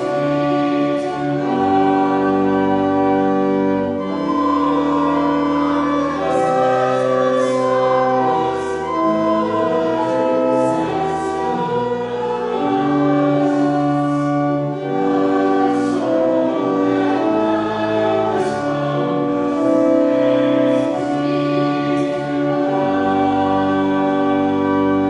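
A congregation singing a slow hymn in unison with organ accompaniment, moving from one held chord to the next.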